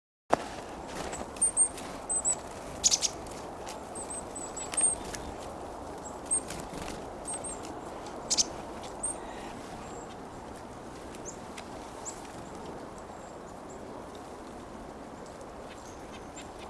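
Black-capped chickadees giving short, high chirps, with scattered sharp clicks over a steady outdoor hiss. The chirps and clicks are busiest in the first half and thin out after that.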